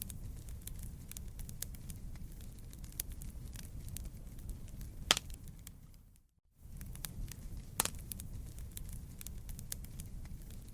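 Wood fire burning, with a steady low rumble and many small crackles and snaps, and a louder pop about five seconds in. The sound cuts out for a moment just past six seconds, then picks up again.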